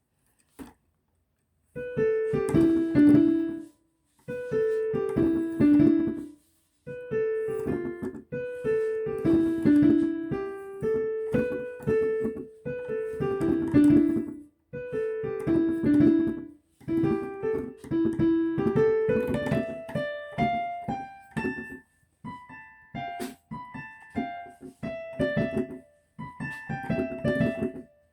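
Solo piano playing a short falling phrase of a few notes over and over, with brief stops between repeats. About two-thirds of the way through a rising run leads into higher phrases.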